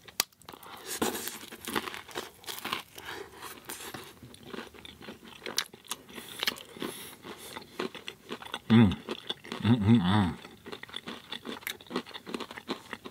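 Close-miked chewing and crunching of crisp food, with two short hums of enjoyment about nine and ten seconds in.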